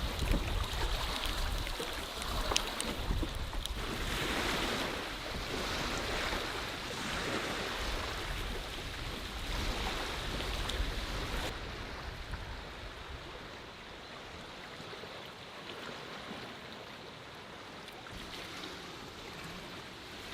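Lake water splashing and washing around a canoe in wind and waves, with a few sharp splashes in the first half. About eleven seconds in, the sound changes abruptly to a quieter, steadier hiss.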